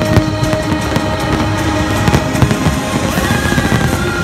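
Aerial firework shells bursting in rapid succession, many sharp bangs and crackles, over steady music.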